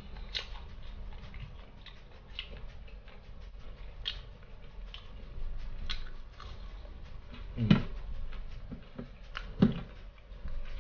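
Close-up chewing of crispy, sauce-coated KFC fried chicken: scattered small crunches, crackles and wet mouth clicks, with two louder thumps, one about three quarters of the way through and another near the end.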